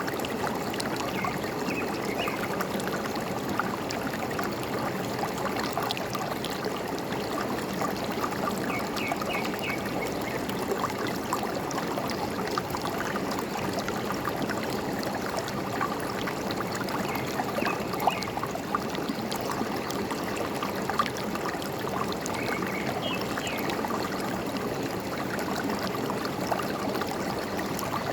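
A forest stream running and trickling steadily, with a few short runs of high bird chirps now and then.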